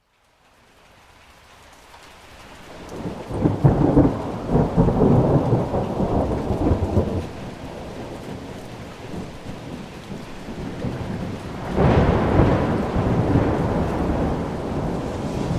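Thunder rumbling twice over steady rain: the first roll builds a few seconds in and runs several seconds, the second breaks sharply near the end and fades slowly. The sound rises out of a brief moment of silence at the start.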